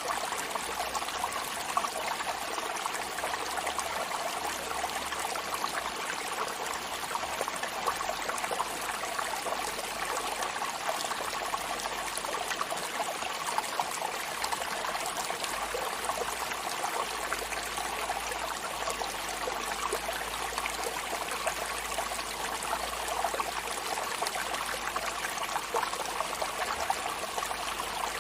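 Sea water washing steadily: a constant rush of water with fine crackling and fizzing, running on without distinct breaking swells.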